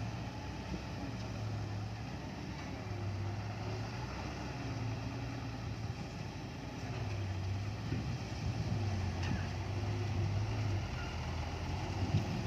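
Heavy diesel engine running with a steady low drone that gets a little louder in the second half.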